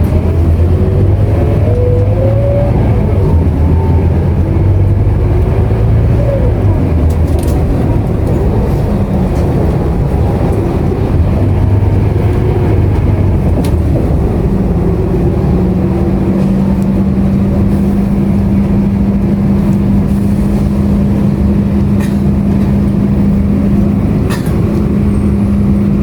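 Scania K230UB bus diesel engine and driveline heard from on board, pulling for the first half. About halfway through it settles into a steady drone.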